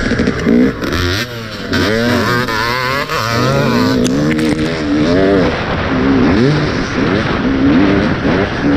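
Motocross dirt bike engine revving up and down over and over, its pitch rising and falling quickly as the throttle is worked through the ride.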